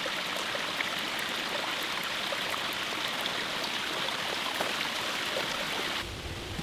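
Steady rushing water noise with faint scattered ticks, changing abruptly to a lower, different noise about six seconds in.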